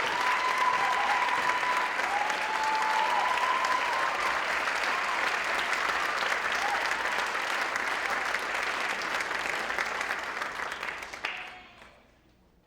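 Audience applauding, with a few voices calling out in the first few seconds; the applause dies away about eleven seconds in.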